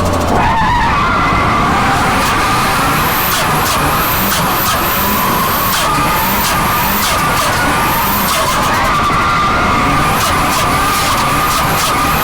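Turbocharged SR20DET inline-four, built to 9.5:1 compression, in a Nissan S13 drift car, worked hard with repeated throttle stabs. Its turbo whistle rises and falls over and over, with short bursts of flutter as the throttle lifts, over a constant rushing noise.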